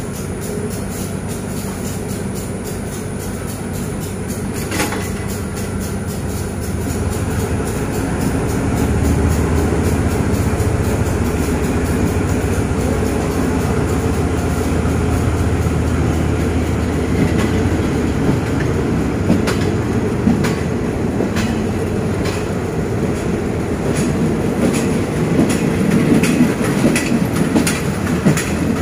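Railway carriages rolling slowly past at close range, with a continuous low rumble that grows louder partway through. In the second half the wheels give sharp clicks as they cross rail joints.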